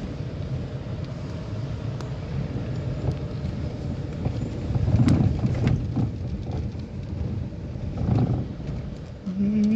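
A vehicle driving along, its engine running with steady road rumble. The sound swells about halfway through and again later, with a few sharp knocks and rattles.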